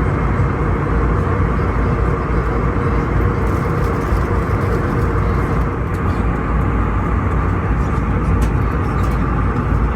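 Steady roar of airflow and engine noise inside the cabin of an Airbus A321neo airliner in flight, with a steady hum running through it.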